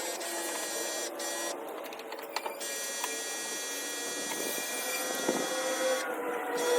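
Steady whine of a small electric motor running, with its pitch and tone shifting about two and a half seconds in.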